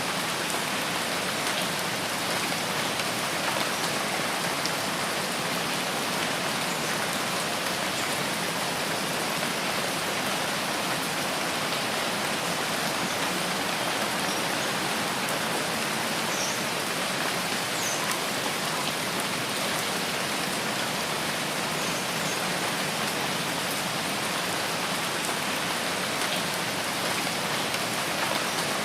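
Steady rain falling, an even, unbroken hiss with the patter of raindrops.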